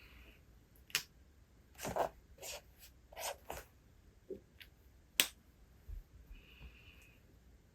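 A book being handled while reading: several sharp light taps and clicks, with soft papery rustles about 2 and 3.5 seconds in, as of a page being turned.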